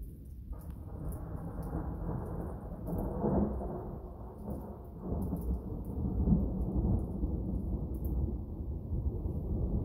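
Thunderstorm: thunder rumbling and rolling in rain. It sets in suddenly about half a second in, swells loudest around three seconds in and keeps rumbling.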